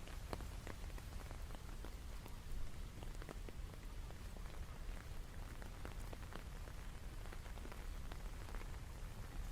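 Steady rain falling, with many separate drops ticking sharply on a hard surface over an even hiss and a low rumble underneath.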